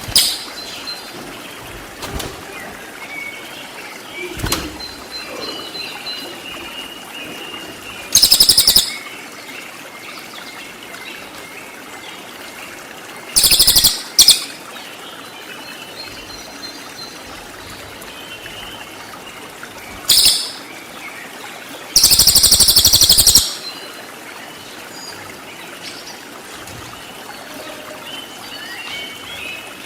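A cililin song recording: four loud, very rapid, buzzy rattling bursts of 'tembakan' phrases, the last lasting over a second, with soft high chirps and a steady hiss between them.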